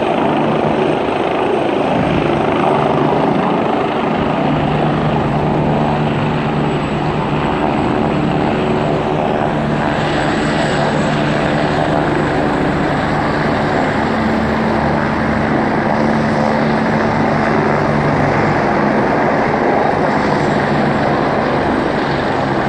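Air ambulance helicopter's rotor and turbine running loud and steady, with a constant low rotor drone.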